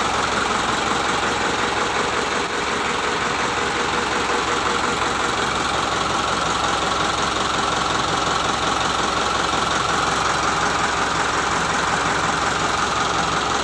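Isuzu Elf truck's turbocharged four-cylinder diesel engine idling steadily.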